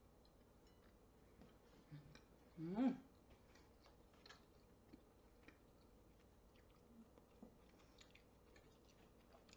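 Faint mouth sounds of a person chewing a sticky, chewy Puchao Ramune soda candy with the mouth closed: scattered soft wet clicks and smacks, with a short hum about two and a half seconds in.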